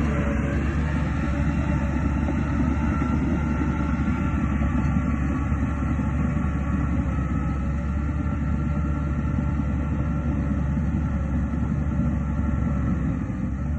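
Heavy diesel engine of earthmoving machinery running steadily with a deep, continuous rumble.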